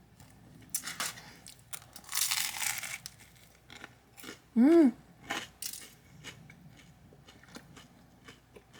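Close-miked chewing of a crunchy toasted sandwich: sharp crunches and mouth clicks, with a longer crackling crunch about two seconds in. Near five seconds there is a short hummed "mm" that rises and falls in pitch, the loudest sound here.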